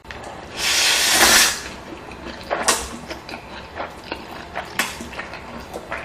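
Close-miked eating sounds: a loud, airy slurp lasting about a second, then scattered wet smacks and chewing clicks.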